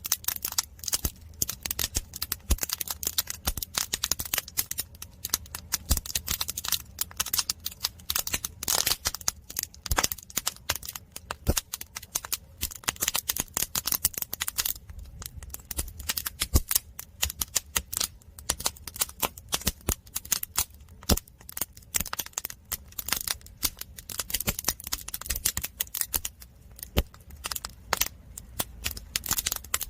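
Firewood burning in a traditional Korean agungi firebox: the logs crackle with many irregular sharp pops and snaps, over a low steady rumble.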